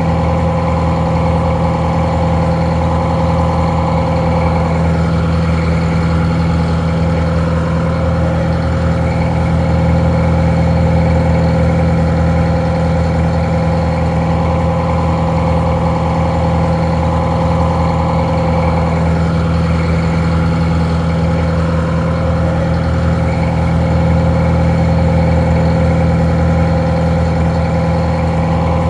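Detroit Diesel 4-71 two-stroke inline four-cylinder diesel idling steadily, a little muffled.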